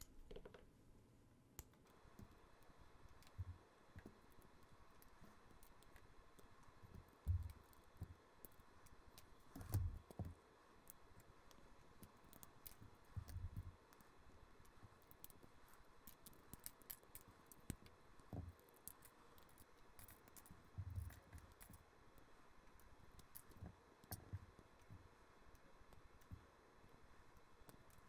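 Faint, irregular clicking of LEGO bricks being pulled apart by hand, with an occasional soft knock as pieces are set down on the table.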